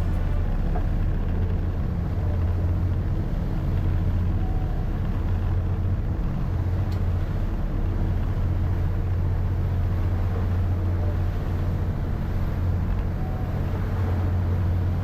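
A steady low engine drone, running evenly without revving.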